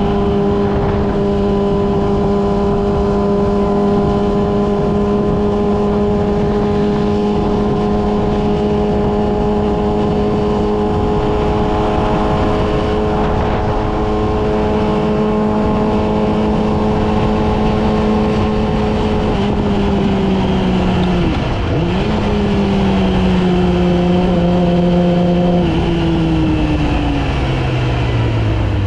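Yamaha R6 inline-four sport bike engine running at a steady, fairly high pitch while cruising, with wind and road noise. A bit past the middle the pitch dips sharply and recovers, then near the end the engine slows and its pitch falls steadily as the bike decelerates.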